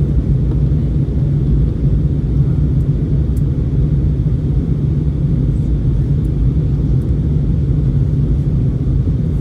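Steady cabin noise inside an Airbus A321 airliner: the engines and airflow make a low, even rumble.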